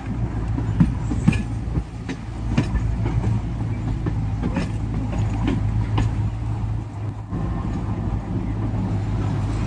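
Train running: a steady diesel engine drone with scattered sharp clicks and knocks, briefly dropping about seven seconds in before picking up again.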